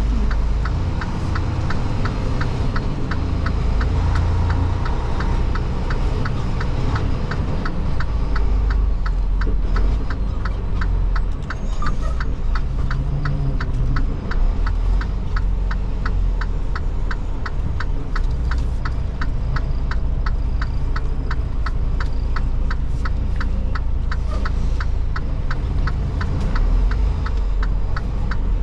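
Semi truck's engine and road rumble, heard from inside the cab, with a steady run of quick ticks, about two or three a second, typical of a turn-signal flasher.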